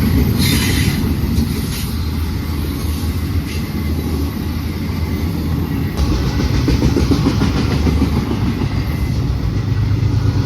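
Freight train rolling past, a loud, steady rumble of wheels on the rails.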